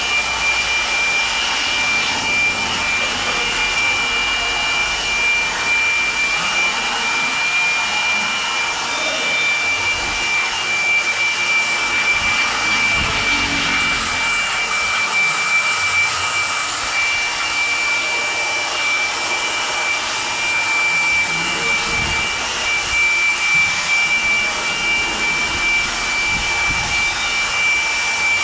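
Electric motor running steadily with a constant high whine over a hiss, the sound of powered washing or blowing equipment.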